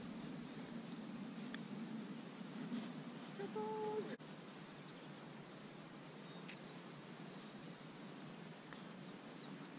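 Open-air ambience with small birds giving short, falling chirps now and then. A brief pitched hum sounds about three and a half seconds in, and the low background haze drops away suddenly just after.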